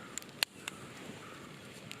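Wood fire crackling, with a few sharp pops over a low steady hiss; the loudest pop comes about half a second in.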